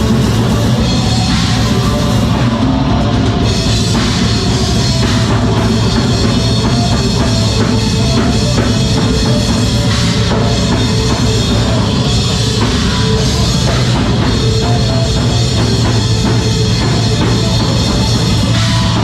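A live rock band playing loud, heavy music, a full drum kit driving it with bass drum under dense guitars.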